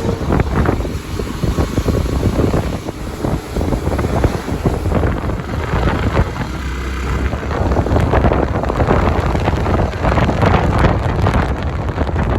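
Wind buffeting the microphone over the steady rumble of a moving vehicle, loud and gusty throughout.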